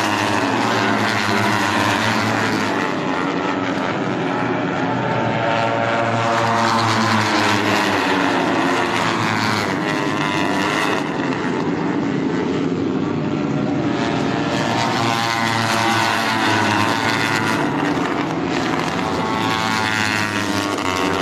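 Engines passing by again and again, their pitch sweeping up and down with each pass.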